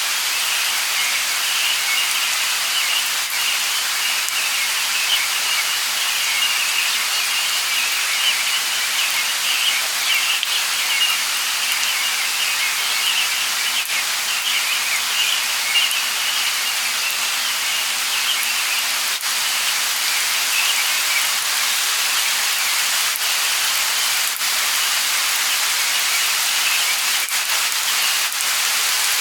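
Light rain falling steadily, with a busy high-pitched flicker of birds twittering through it.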